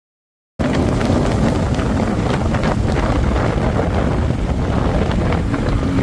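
Wind buffeting the microphone aboard a speeding motorboat, with the rush of the boat's run underneath; it cuts in suddenly about half a second in after silence.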